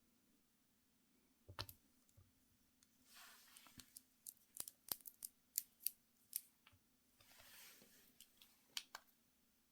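Faint close-up handling sounds: a run of sharp clicks and taps, with two stretches of rustling about three seconds and seven seconds in.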